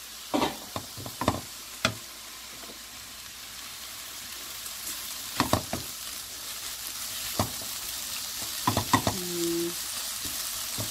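Dried-pumpkin namul sizzling as it is stir-fried in a wok, with a wooden spatula scraping and knocking against the pan now and then. The sizzle grows a little louder after the middle.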